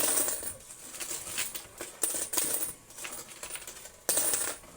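Quarters clinking and clattering against each other and the metal of a coin pusher game. Lots of small clicks, with three louder bursts of coins spilling, about two seconds apart.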